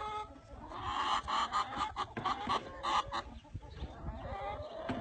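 A chicken squawking as it is caught and held: a run of loud, sharp squawks from about one to three seconds in, then softer, drawn-out calls near the end.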